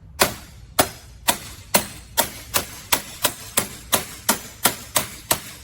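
Hammer blows on metal in a steady series, about fourteen strikes at two to three a second, getting a little quicker. The blows are driving a keyed part along a shaft whose keyway is stiff to go in.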